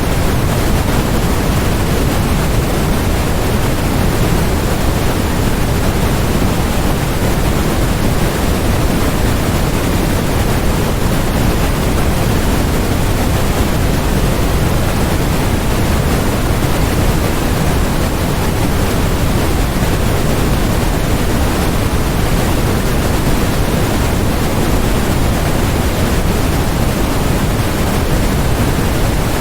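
Steady electronically generated noise: a constant, unchanging hiss, heavier in the low end and softer in the highs.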